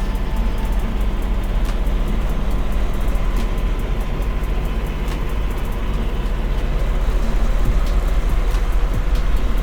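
Peterbilt semi truck driving, its diesel engine running steadily with road noise, heard from inside the cab.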